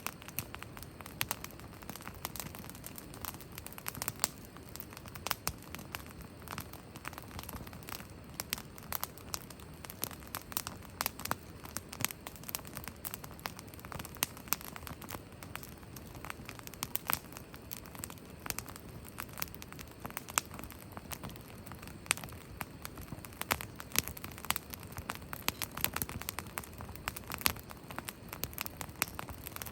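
Wood campfire crackling, with frequent irregular sharp pops and snaps over a steady low hiss of burning.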